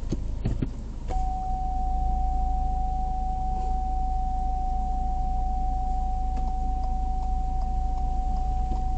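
A steady single-pitched electronic beep comes in about a second in and holds unbroken for about eight seconds, over a low steady rumble of vehicle and road noise.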